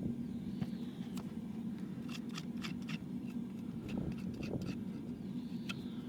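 Hoof being worked with farrier's hand tools: irregular sharp clicks and scrapes over a steady low hum.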